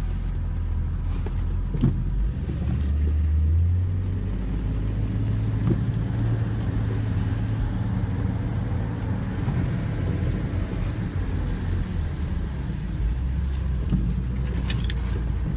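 Car driving on a rainy road: a steady low engine and road rumble with a faint hiss, swelling briefly about two to four seconds in, and a few light clicks near the end.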